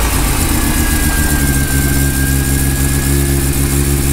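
Mazda RX-7 FD's 13B rotary engine settling into a steady idle just after starting, with a faint high whine in the middle. The car has been running poorly since a coolant line popped off, and the owner fears the engine may be blown.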